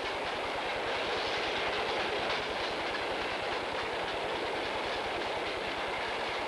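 Steam-hauled freight train's hopper wagons rolling past, their wheels running on the rails in a steady noise that is slightly louder in the first couple of seconds.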